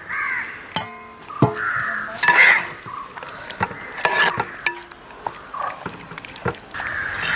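Raw chicken pieces being added to curry paste in a metal uruli, with scattered clinks and knocks against the pot; one knock about a second in rings briefly.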